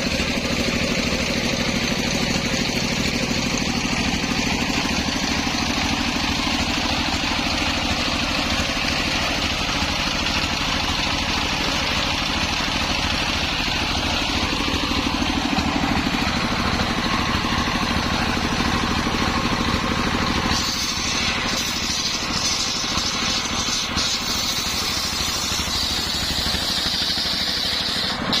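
Homemade engine-driven circular saw running steadily. About twenty seconds in, the sound shifts: the low drone thins and a higher hiss comes up.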